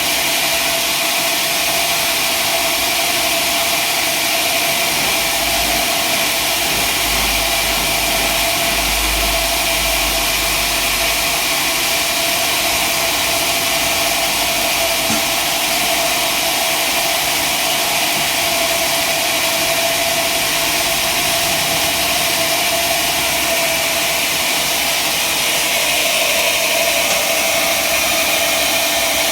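Sawmill machinery running steadily: a constant whine over a dense rushing noise, dropping slightly in pitch and getting a little louder near the end.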